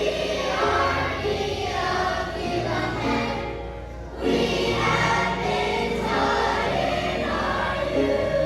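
A choir singing a song, with held notes and a brief lull about four seconds in before the next phrase comes in.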